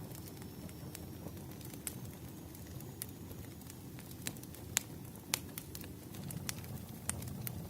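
Wood fire crackling: a steady low rumble of flames with scattered sharp pops, the two loudest a little past the middle.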